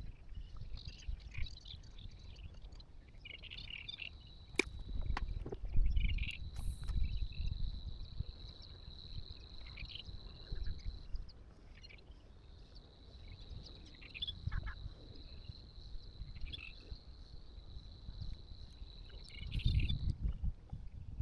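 Wildlife by the water: a steady high-pitched trill that drops out for a moment about halfway through, with short bird-like chirps over it and low wind rumble on the microphone.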